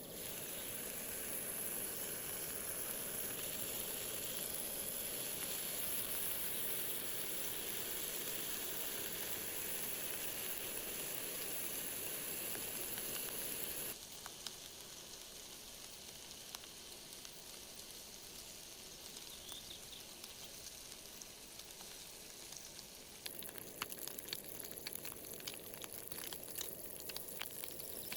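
Food sizzling and frying over a campfire, a steady hiss. It drops abruptly quieter about halfway through, and sharp crackles set in near the end.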